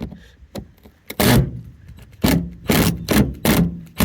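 Rhythmic hand scraping, roughly two to three short strokes a second starting about a second in, as a tool works dirt and rust out of the heads of old rusty screws in a truck floor.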